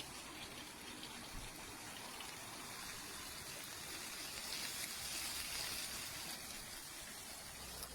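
Steady rushing, hissing noise, like running water.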